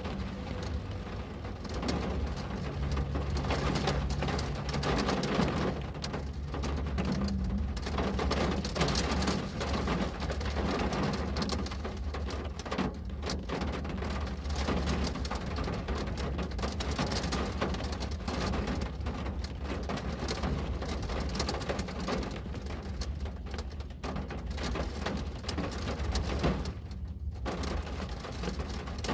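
Steady rain falling on a window, many drops pattering without a break over a constant low rumble.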